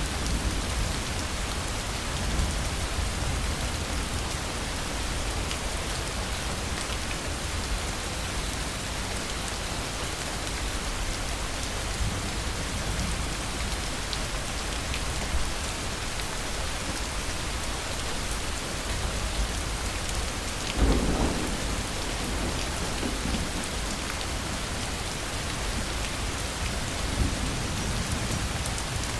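Heavy rain falling steadily with low rolling thunder. About two-thirds of the way through, a sharp thunderclap breaks out and rumbles briefly.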